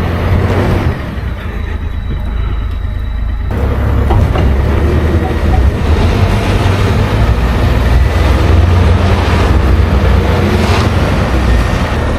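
Truck engines running hard under load during a strap pull of a work truck stuck on snow and ice. The sound fills out and gets louder about three and a half seconds in.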